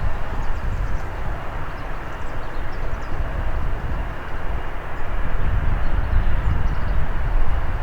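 Airbus A320 jet engines at takeoff power, a broad rushing rumble, mixed with strong wind buffeting the microphone; the noise grows louder about five seconds in.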